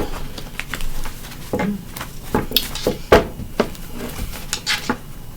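Tarot cards being handled on a table: irregular sharp clicks and taps as cards are shuffled, pulled and laid down.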